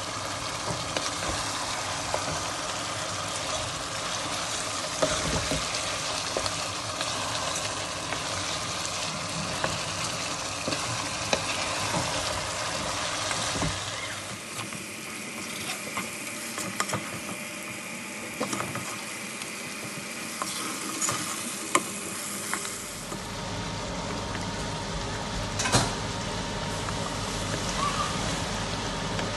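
Lamb and fried onions sizzling in a pot as they are stirred, with scattered sharp clicks of the spoon against the pot.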